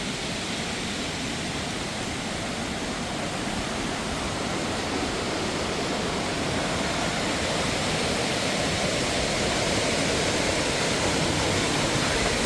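Steady rush of water pouring over rocks, a dense hiss that grows a little louder toward the end.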